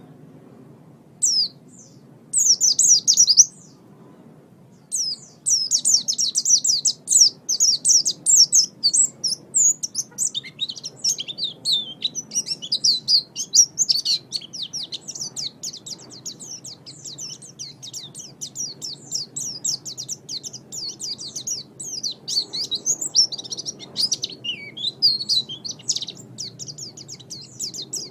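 Pleci (white-eye) singing: rapid, high twittering notes in short bursts over the first few seconds, then an unbroken run of song from about five seconds in.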